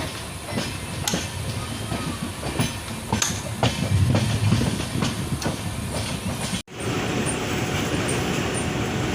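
Train wheels clattering over rail joints: a run of irregular sharp clicks over a low rumble. About six and a half seconds in it breaks off suddenly, and a steady rushing noise follows.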